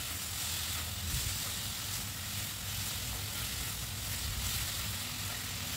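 Sliced potatoes and tomatoes frying in hot oil in a kadai, sizzling steadily as they are stirred with a spatula to mix in salt and turmeric.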